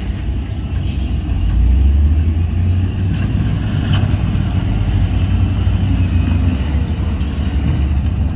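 Heavy diesel engine of earthmoving machinery, a dump truck or bulldozer, running steadily with a deep low rumble, with a few faint ticks over it.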